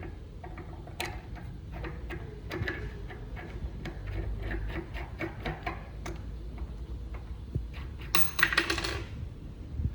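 Small metal tools and injector parts clicking and tapping against each other as a special tool is fitted to a Denso common rail injector's lock nut, with a louder metallic rattle about eight seconds in.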